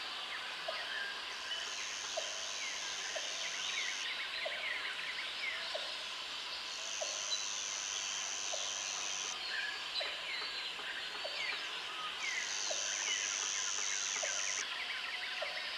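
Jungle ambience: many birds chirping and calling over one another. An insect buzzes high in three spells of about two and a half seconds each, and a short low call repeats at an even pace throughout.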